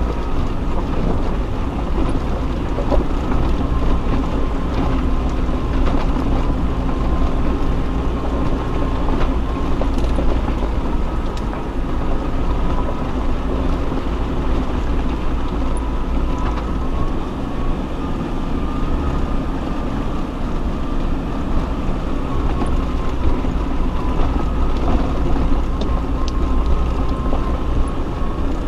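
Off-road vehicle driving on a rough dirt track: steady engine drone and rumble, with a few light knocks.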